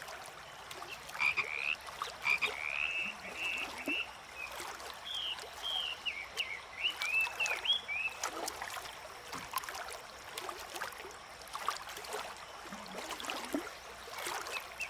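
Frogs calling: a run of short, arching chirps in the first half, over a faint background of scattered clicks and hiss.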